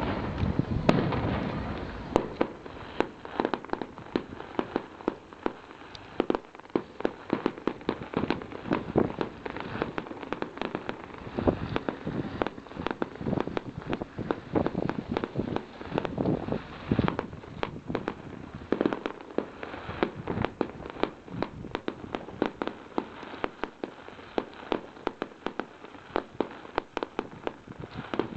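Fireworks going off: a long, irregular string of sharp bangs and pops, several a second, with a louder burst right at the start.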